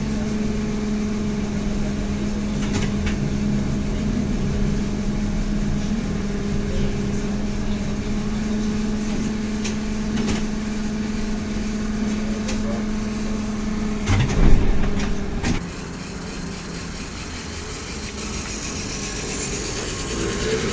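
Cabin sound of a ZiU-682 trolleybus: a steady electrical hum with light rattles. About fourteen and a half seconds in there is a loud knock, and then the hum stops and the cabin goes quieter. Near the end a rising whine begins as the trolleybus pulls away.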